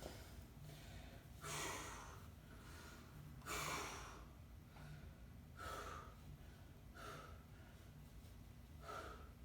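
A person breathing hard during bodyweight exercise: about five heavy breaths, one every one and a half to two seconds.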